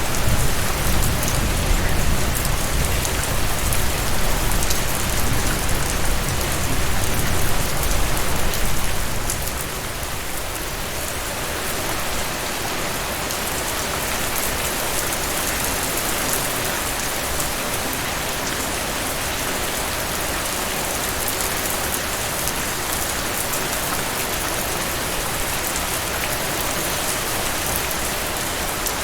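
Heavy rain falling steadily, an even hiss of many drops. Over the first nine seconds or so, a low rumble of thunder rolls under it and then dies away.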